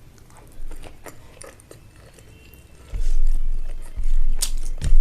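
Close-miked mouth sounds of eating rice and egg curry: a few faint wet clicks, then from about three seconds in loud chewing with deep thuds and sharp lip-smacking clicks.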